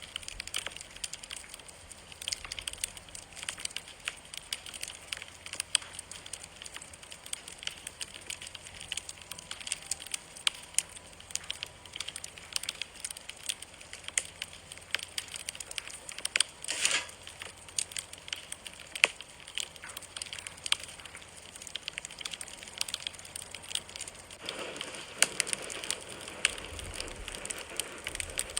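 Wood campfire crackling with frequent small pops and snaps, one stronger burst about 17 s in, and a busier few seconds near the end.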